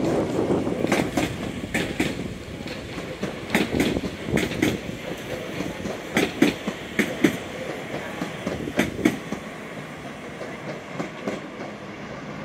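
Northern Class 331 electric multiple unit running in slowly, its wheels clicking over rail joints and points in pairs over a steady rumble. The clicks grow quieter and sparser as the train draws away along the platform.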